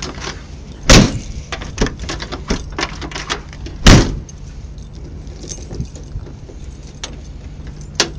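Ford F100 inline-six engine idling steadily, with two loud thuds about a second in and about four seconds in and light clinks and clicks between.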